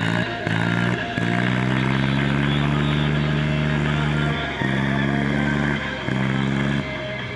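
A heavy vehicle's engine running in several stretches that cut in and out suddenly, the longest about three seconds, over background music.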